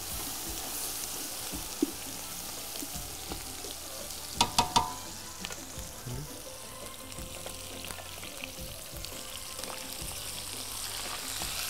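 Onions, garlic and tomato paste frying in oil in a steel cooking pot with a steady sizzle as they are stirred, with pieces of hammour frying in oil in a pan alongside. A quick run of sharp metal clinks comes about four and a half seconds in.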